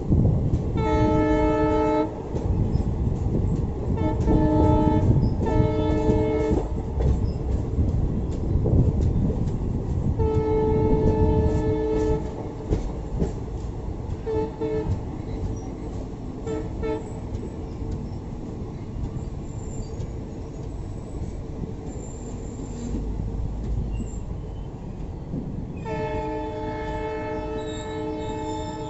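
Train horn sounding in repeated blasts over the continuous low rumble and rattle of the moving train. There is a blast about a second in, two short blasts around 4 to 6 seconds, a longer blast around 10 to 12 seconds, a few short toots a little later, and a long blast near the end.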